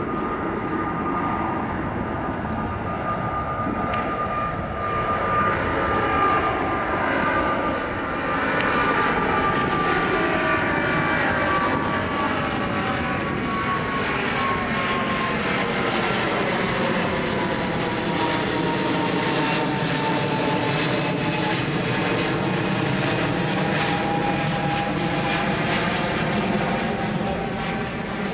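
Boeing 777-200 twin-jet airliner taking off and flying past, its engines making a loud, steady jet roar with a high whine that slowly falls in pitch as it goes by.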